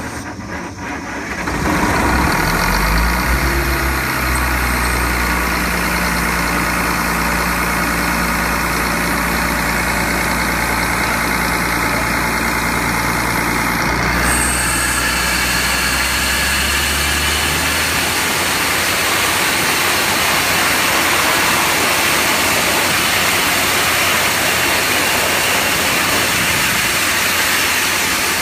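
Industrial air compressor running loud, with a rush of air blowing out of it. The sound starts suddenly and builds over about two seconds, holds steady, and turns brighter and hissier about halfway through.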